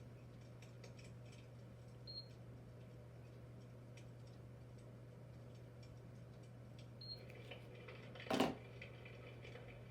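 Electric fireplace insert's simulated fire crackling sound: faint, irregular clicks and pops over a steady low hum, with one louder pop about eight seconds in.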